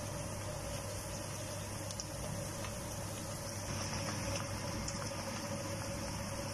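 Sliced onions frying in oil in a pan: a steady sizzle over a constant low hum, with a few faint clicks. The sizzle grows a little louder about four seconds in, as oyster sauce goes into the pan.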